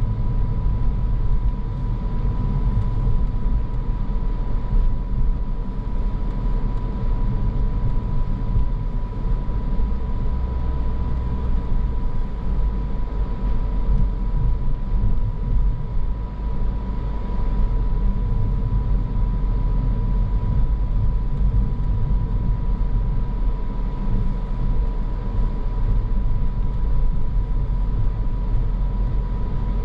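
Steady car driving noise: a low rumble of engine and tyres on the road, with a thin steady whine over it.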